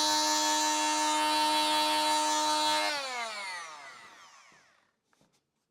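Electric power tool motor running steadily at full speed with a high whine, then switched off about three seconds in and winding down, its pitch falling as it fades out. A couple of faint ticks follow.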